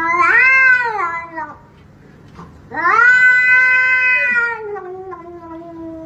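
A cat giving two long, drawn-out meows. The first rises and falls over about a second. After a short pause the second is held for about three seconds and slides lower as it fades.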